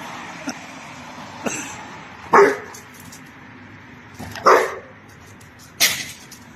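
A dog barking: three single barks spaced about two seconds apart.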